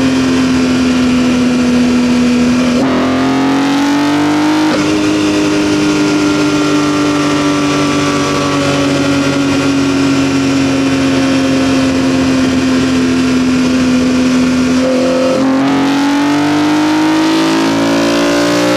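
BMW E46 M3's S54 inline-six, fitted with a CSL-style carbon intake airbox, running under load, recorded close up in the engine bay. The engine note climbs quickly about three seconds in, eases down slowly for about ten seconds, then climbs again near the end.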